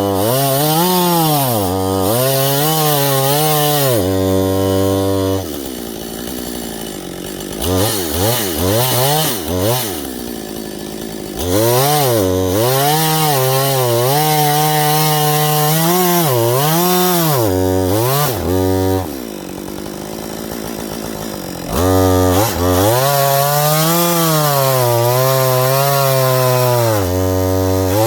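Husqvarna 562 XP two-stroke chainsaw cutting wood at high revs, its engine pitch sagging and recovering again and again as it loads up in the cut. It drops back and goes quieter twice, once around six seconds in, with a few quick revs before it picks up again, and once around twenty seconds in. The chain is dull, and the saw labours through the cut.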